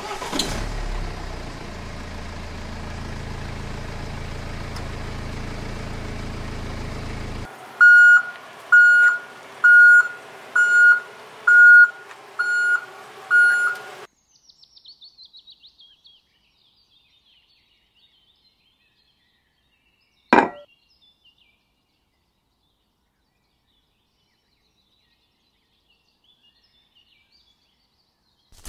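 Toy truck's electronic sound module: a steady engine-like drone for several seconds, then seven loud, evenly spaced reversing beeps, one a little under a second. About twenty seconds in there is a single sharp knock.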